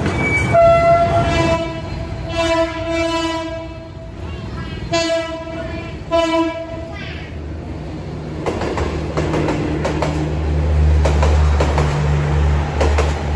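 Train horn sounding a series of blasts, some long and some short, over about the first seven seconds, then the low steady rumble of a train running past with light clicking.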